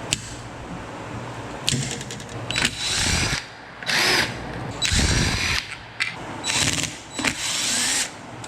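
Power drill running in about six short bursts with brief pauses between.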